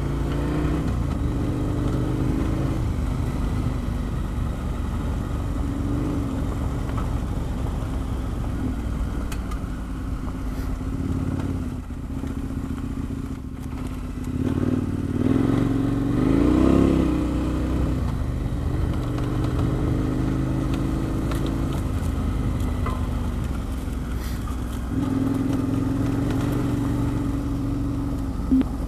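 KTM 1090 Adventure R's V-twin engine running under a rider on a dirt track. It eases off a little under halfway, then revs up with a rising pitch, its loudest moment, before settling back to a steady pull.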